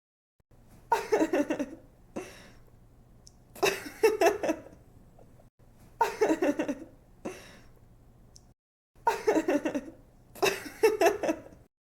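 A young woman giggling: five short fits of high laughter with breathy pauses between them.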